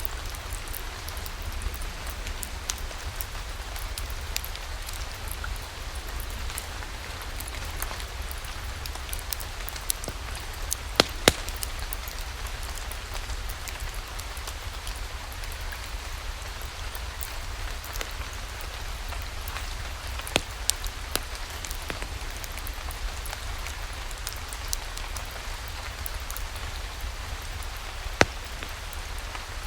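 Steady rain with the scattered sharp crackles and pops of a wood fire. A few louder pops come about eleven seconds in, around twenty seconds in, and again near the end.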